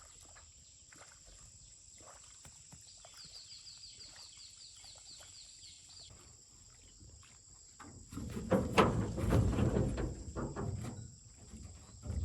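Outdoor ambience with a steady high insect drone and a bird giving a quick series of chirps for a few seconds. About eight seconds in, a louder burst of knocking and rushing handling noise takes over for a few seconds.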